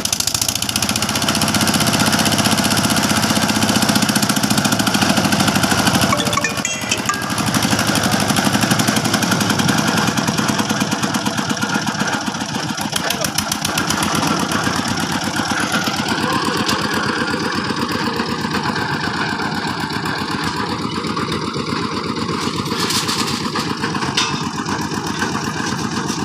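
Heavy construction machine's engine running steadily with a fast, even pulsing, its tone shifting slightly about two-thirds of the way through.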